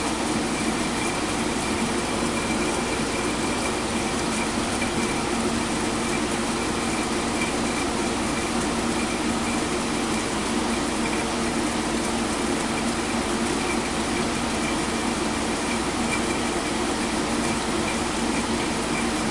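Window air conditioner running in cool mode: a steady rush of air from its fan over a low hum, with a thin steady high whine.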